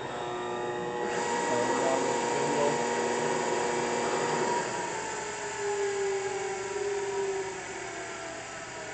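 K.O. Lee BA-960 tool and cutter grinder switched on: its electric motor starts at once and runs with a whine of several steady tones, some of which slowly fall in pitch from about five seconds in.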